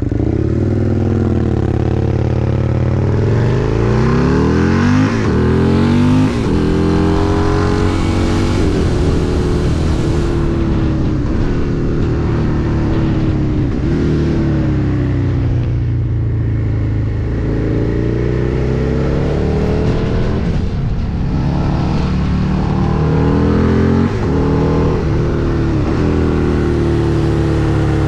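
Husqvarna Nuda 900's parallel-twin engine being ridden hard, its revs climbing and falling. The pitch drops sharply at gear changes about five and six seconds in and again near the end. Wind rushes steadily over the onboard microphone.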